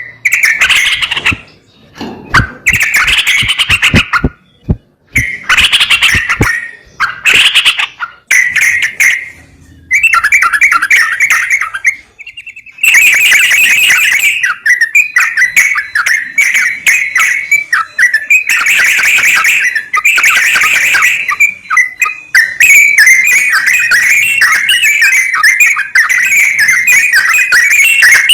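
Sooty-headed bulbul (trucukan) song: loud, repeated bubbly chattering phrases in short bursts with brief pauses, running almost without a break from about 13 seconds in.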